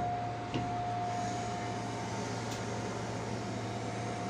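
Steady mechanical hum and hiss with a thin steady whine above it, and one light knock about half a second in.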